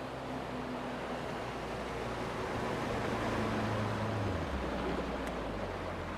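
Boat's outboard motor running under way, with a steady rush of water and wind. The engine note steps down about four and a half seconds in.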